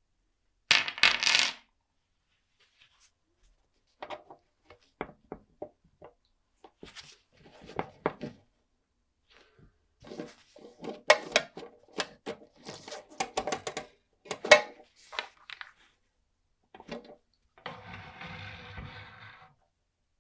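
Small metal clock parts clicking and clinking against a hard surface as they are handled, with a loud clatter about a second in and a short rattling buzz near the end.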